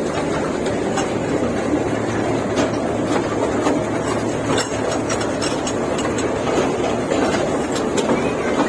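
Amusement-park toy train running along its track: a steady rumble with faint, irregular clicks from the wheels.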